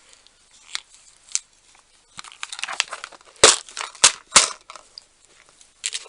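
Small hardware and its plastic containers being handled: a run of sharp clicks and rustling, loudest in three clicks about halfway through.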